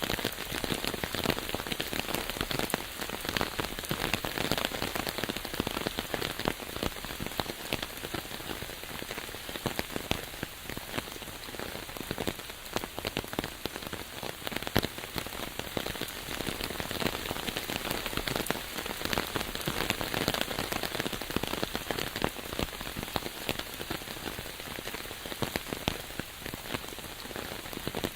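Steady rain falling on leaves and ground, a dense patter of many individual drops.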